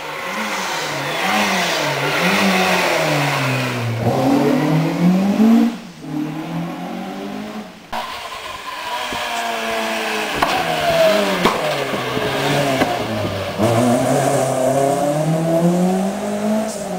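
Rally car engine at full throttle, the revs climbing and dropping again and again with each gear change as the car comes up the lane and passes. About six seconds in the sound drops away sharply, then the engine is heard again, rising and falling through the gears.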